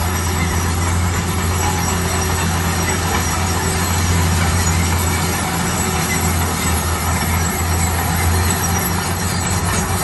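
A heavy road construction machine running steadily: a constant low engine hum under an even mechanical rumble and hiss.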